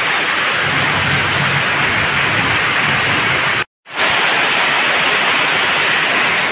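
Heavy rain falling steadily on wet paved ground and puddles, a dense even hiss. It cuts out completely for a moment a little past halfway, then resumes.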